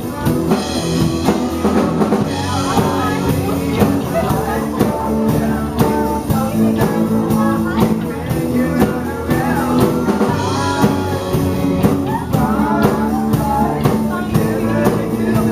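Live band playing a pop-rock song: a drum kit keeping a steady beat under electric guitar and a sung vocal line.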